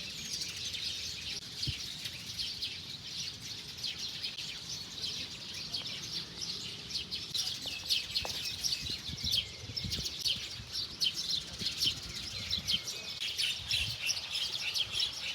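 Many small birds chirping at once, a dense, continuous chatter of short, quick chirps.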